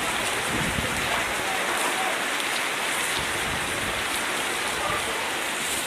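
Heavy downpour during a thunderstorm: a steady, even hiss of intense rain falling.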